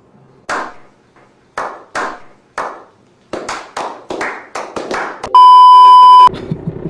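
Hand claps, at first a few spaced apart, then quickening into a rapid run. A loud, steady beep tone lasting about a second cuts in over them.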